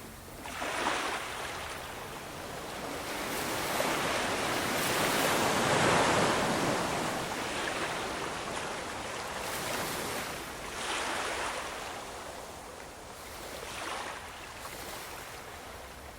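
Ocean surf: waves breaking and washing up on a shore, one wave building to its loudest about six seconds in and then receding, followed by smaller surges.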